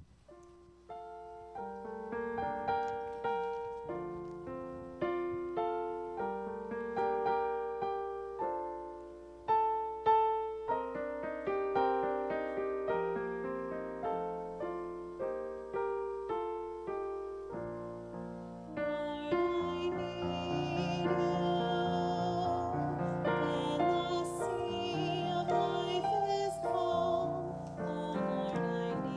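Piano playing a slow melody over chords, note by note. About two-thirds of the way through, the music grows fuller, with held, wavering notes added over the piano.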